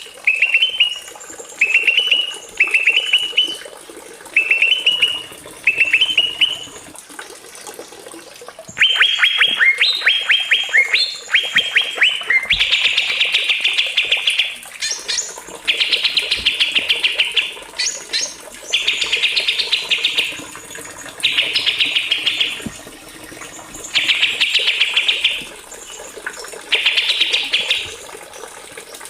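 Small songbird singing: groups of short rising chirps, then a rush of quick upward-sweeping notes, then long rolling trills of about a second and a half each, repeated with short gaps and a few sharp high whistles between them.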